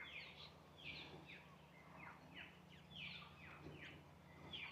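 Faint bird calls: many short chirps, each sweeping quickly down in pitch, repeated several times a second.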